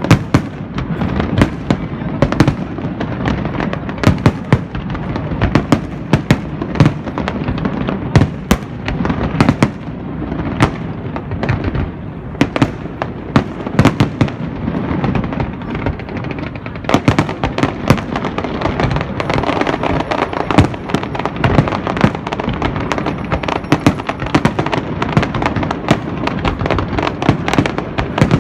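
Diwali fireworks and firecrackers going off all around: dense, overlapping sharp bangs, often several a second, over a continuous rumble of more distant explosions.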